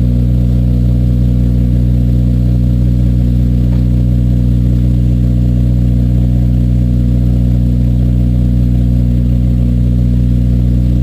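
A 2002 Acura RSX Type S's 2.0-litre four-cylinder idling steadily after a cold start, heard through a 3-inch header-back exhaust.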